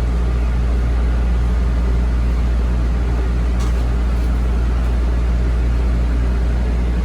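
Heavy truck-mounted engine running steadily at constant speed, a loud, unchanging low drone.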